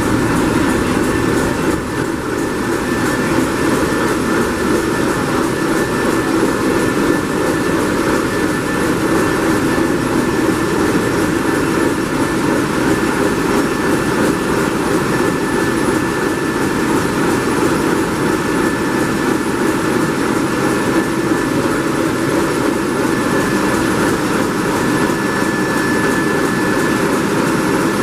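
MaK marine diesel main engine of a passenger launch running steadily in its engine room: a loud, even din with a faint steady high whine on top.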